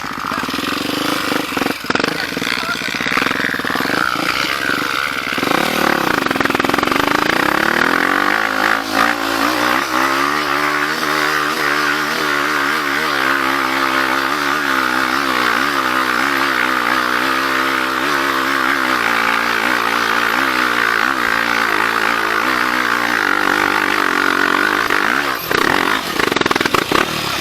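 Trail motorcycle engine running under load, its pitch climbing about six seconds in, then wavering up and down with the throttle before dropping away near the end.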